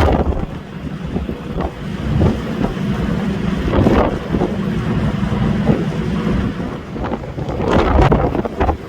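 Strong wind buffeting the microphone in uneven gusts, loudest about four and eight seconds in, over a steady low engine hum.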